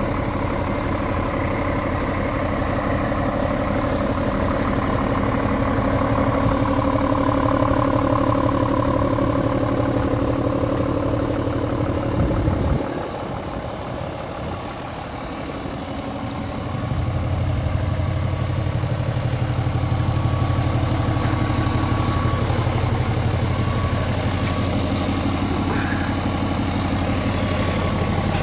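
Scania R450 truck's 13-litre inline-six diesel idling steadily. About halfway through its sound drops away for a few seconds, then comes back as strong as before.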